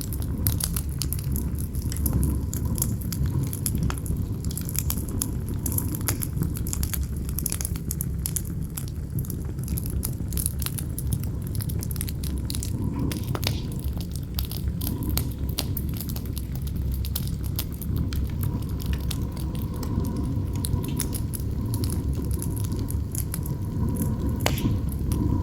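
Campfire crackling, with frequent sharp snaps and pops over a steady low rumble of wind.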